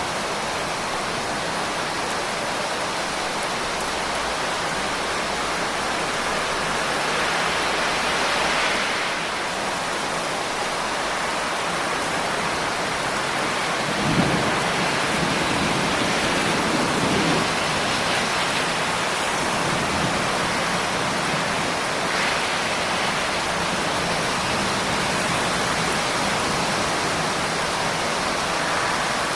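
Steady, heavy rain hissing without a break. About halfway through, a low roll of thunder starts suddenly and rumbles for a few seconds.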